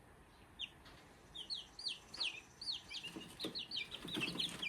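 Young chicks, about a month old, peeping: short, high, falling chirps, a few at first, then several a second from about a second and a half in. This is the frightened peeping of chicks being held. Some rustling near the end.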